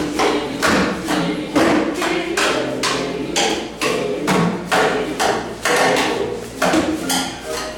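Rhythmic percussion played on recycled and reused objects: a steady beat of knocks and hits, about two to three strikes a second.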